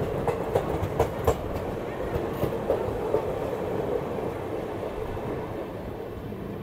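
Express passenger train running on the rails, heard from aboard: a steady rumble with a few sharp wheel clicks over rail joints in the first second and a half, growing gradually quieter toward the end.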